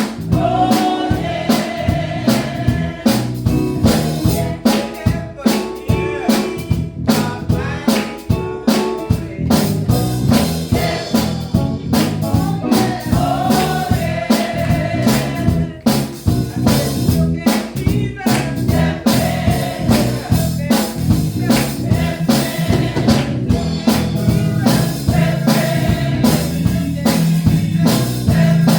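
Gospel music with singing over a steady drum-kit beat, about two drum hits a second.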